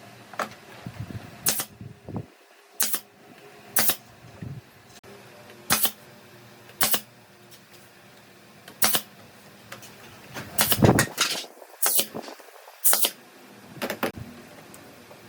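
A series of sharp knocks, about a dozen, spaced irregularly at roughly one a second, with a quicker cluster of knocks about two-thirds of the way through.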